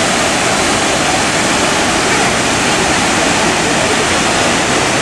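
Steady, loud wind rush on the microphone of a camera riding on a moving motorcycle.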